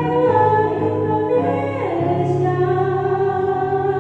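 Elementary-school pupil singing an Indonesian patriotic song over musical accompaniment; about halfway through the voice slides down and holds one long note.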